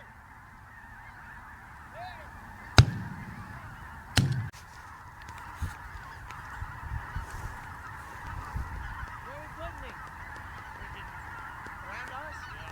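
A large flock of snow geese calling, a dense, continuous clamour of honking, with two shotgun shots about a second and a half apart near the start; the shots are the loudest sounds.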